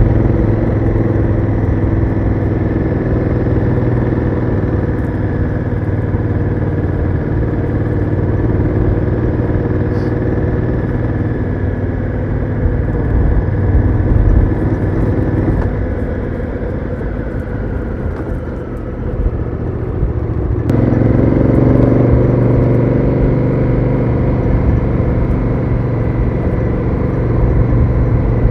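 Honda Africa Twin CRF1000L's parallel-twin engine through its stock exhaust, running steadily on the move. A little past halfway the engine note drops and falls in pitch. About three-quarters through it picks up suddenly and pulls harder again.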